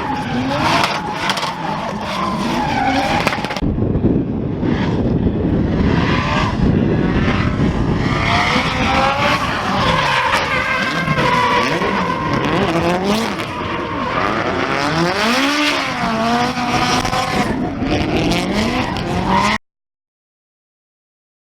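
Drift cars sliding in tandem: engines revving up and down under changing throttle over continuous tire squeal. The sound cuts off abruptly to silence about two seconds before the end.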